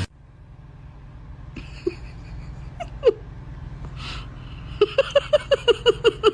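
A pet gives a couple of single short calls, then a quick run of about ten short, chirping calls in the last second and a half, over a steady low hum.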